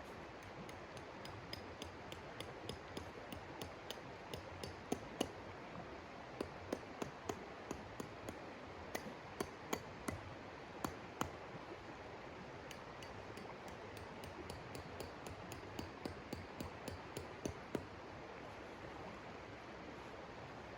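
Wood-burning stove crackling and pinging: dozens of sharp, irregular snaps, thickest through the middle, over a steady rushing hiss.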